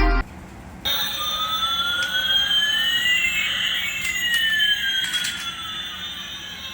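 Electronic siren-like sound effect: two steady tones glide across each other, one rising in pitch while the other falls, over about six seconds. It begins a moment after the music cuts off.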